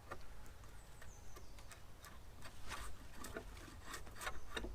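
Draw knife peeling bark off a fresh cedar log: faint, irregular scraping strokes and small clicks of wood.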